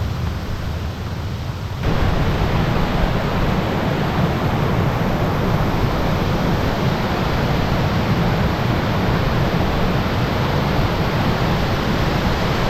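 Steady roar of Muthyala Dhara waterfall, a dense rush of falling water that jumps abruptly louder about two seconds in and then holds.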